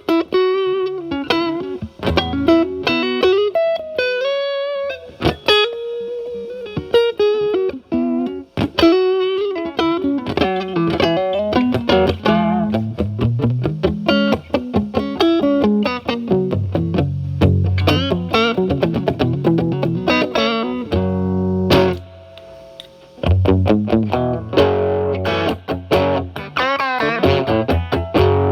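Electric guitar, a Stratocaster with single-coil pickups, played through a Timmy overdrive pedal with its gain at about noon into the clean channel of a Marshall Valvestate amp, giving a mildly overdriven tone. It starts with picked single-note lead lines and moves to lower notes and chords about ten seconds in, with a brief quieter gap about three-quarters of the way through.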